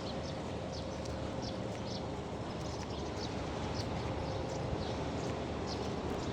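Small birds chirping: short, high chirps scattered irregularly over a steady background rumble.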